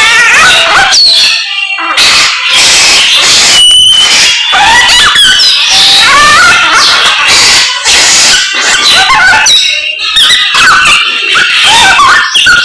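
Samyong songbird singing loudly: a rapid, varied stream of whistles, sweeping notes and harsh chattering calls, with only brief pauses.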